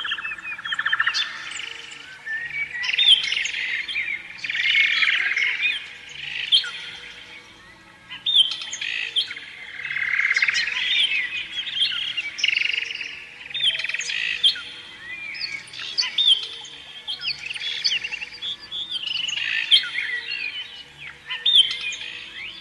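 Canary singing: a continuous song of fast trills, chirps and quick rising and falling notes, with a short lull about a third of the way in.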